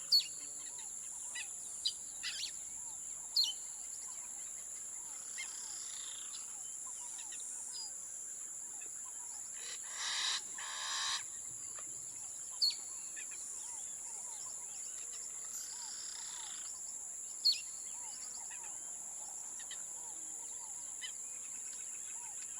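Wild forest birds calling in short, scattered chirps over a steady high-pitched drone, with one louder, harsher call about ten seconds in.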